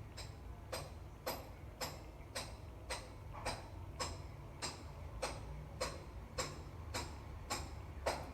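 Regular tapping strikes, about two a second, each with a short bright metallic ring, like a tool striking hard material at a steady pace, over a steady low hum.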